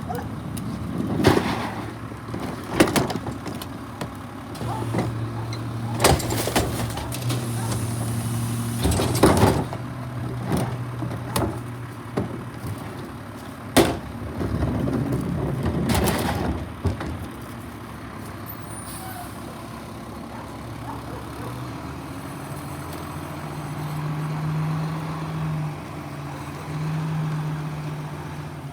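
Garbage truck's diesel engine running, with a series of sharp metal clanks and bangs and a hiss of air, typical of a truck's air brakes. Later the engine note rises twice.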